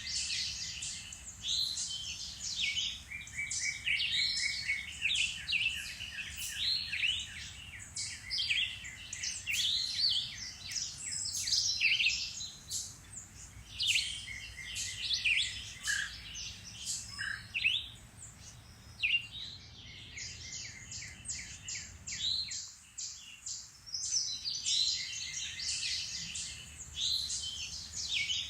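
Several woodland birds singing and calling at once, a dense chorus of overlapping chirps and trills, including a fast run of repeated notes; it thins out briefly about two-thirds of the way through.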